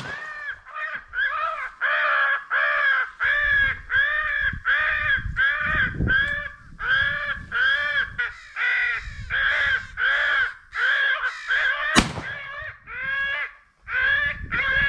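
Crow caws repeated steadily, about two to three a second, with no break. About twelve seconds in there is a single sharp crack.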